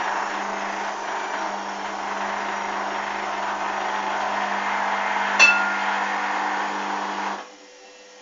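Hoover washing machine running with a steady hum under a noisy wash. A sharp click comes about five seconds in, and the machine's running stops abruptly a couple of seconds later.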